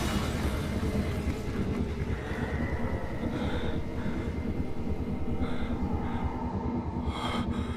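A steady, heavy low rumble from the anime's sound effects, with a brief rush of higher noise near the end.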